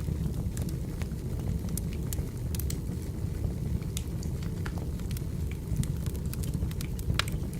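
Burning wood fire crackling: a steady low rumble of flames with irregular sharp pops and snaps throughout, one louder pop near the end.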